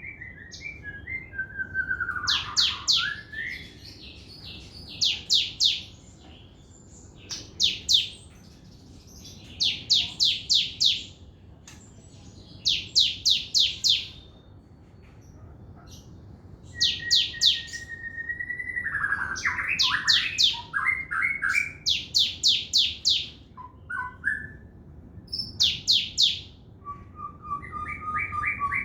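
A captive sogon songbird singing fast and in full voice. Bursts of four to six rapid, high chirps come about every two to three seconds, with lower whistled notes sliding up and down between them.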